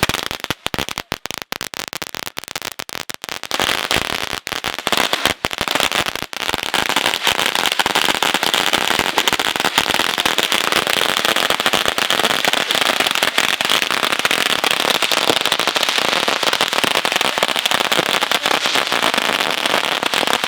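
Consumer fireworks going off in rapid crackling pops: scattered sharp cracks for the first few seconds, then a dense, continuous crackle that keeps going.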